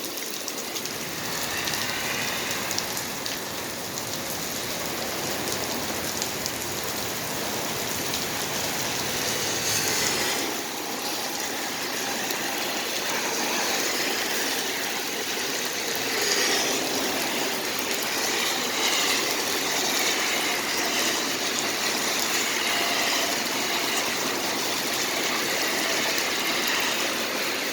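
Steady rain falling, a constant even hiss, with a low engine-like rumble underneath that drops away about ten seconds in.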